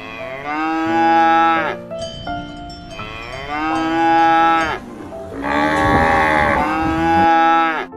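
Cattle mooing: three long, drawn-out moos one after another, the last one hoarser.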